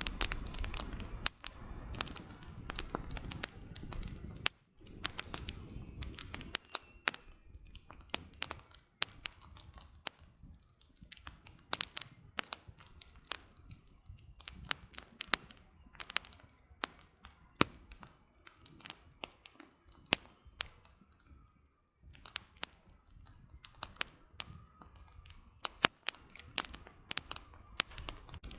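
Campfire of burning firewood crackling, with irregular sharp pops and snaps, and a low rumble of flames in the first few seconds.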